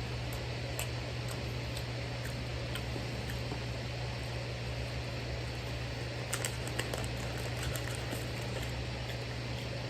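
Steady low mechanical hum with an even hiss, like a room fan or air conditioner running, with faint scattered small clicks, a few close together about six seconds in.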